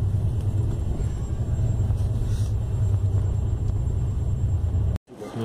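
Steady low rumble of a passenger train running at speed, heard from inside the carriage; it cuts off suddenly about five seconds in.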